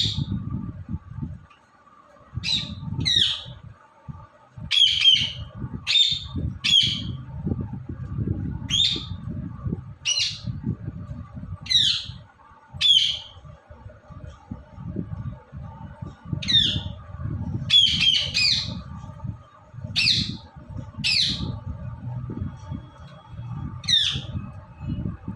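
Indian ringneck parakeet giving short, sharp squawks over and over, each a quick falling call, often in pairs about half a second apart. A low rumble sits beneath the calls.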